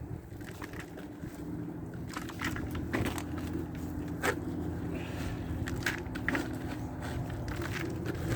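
Wood mulch crunching and crackling as it is dug out of a filled chest freezer, in irregular bursts, over a steady low hum.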